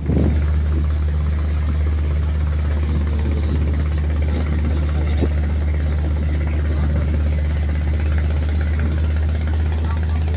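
Boat engine running steadily, a deep continuous drone that does not change.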